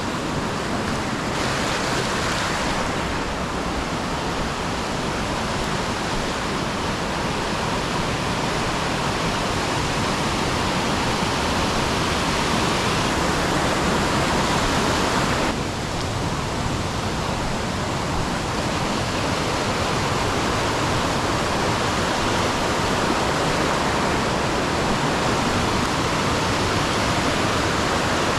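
Steady, loud rushing of water, with no distinct events; its character changes abruptly about a second in and again about halfway through.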